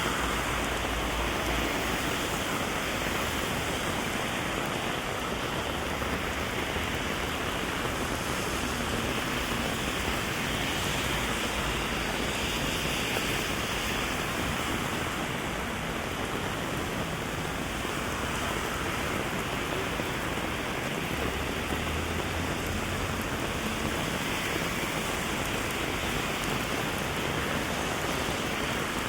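Steady heavy rain falling on an umbrella overhead and on the street around it, with a low rumble near the start and again about two thirds of the way through.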